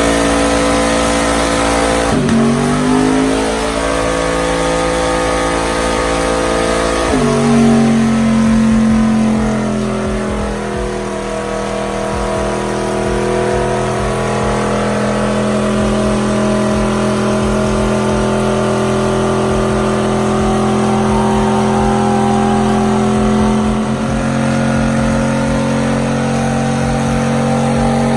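A truck engine held at high revs during a burnout. It runs at a steady pitch, climbing to a higher one about two seconds in and again about seven seconds in.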